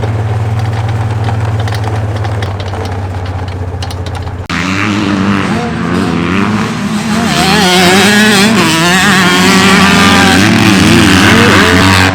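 A motor engine running steadily at a low, even pitch, then, about four and a half seconds in, a sudden switch to several dirt-bike engines revving up and down at once, as in a race on the track.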